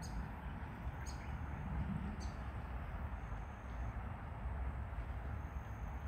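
Outdoor pond-side ambience: a steady low rumble with two short, high bird chirps about one and two seconds in.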